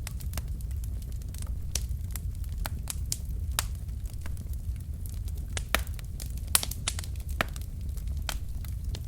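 Wood fire burning in a fireplace: a steady low rumble of flames with irregular sharp crackles and pops from the burning logs, a few louder pops around the middle.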